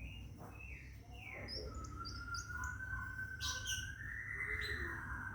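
Caged scarlet minivet singing: a few short down-slurred chirps and brief high notes, then a long wavering whistle that starts about one and a half seconds in and rises slightly near the end.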